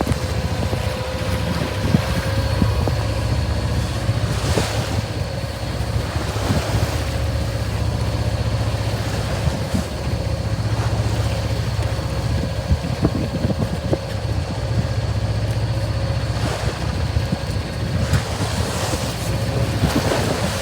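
Wind and waves aboard a small sailing yacht in rough weather, with a steady low rumble and hum underneath and a couple of brief louder rushes of water, at about four and a half seconds in and near the end.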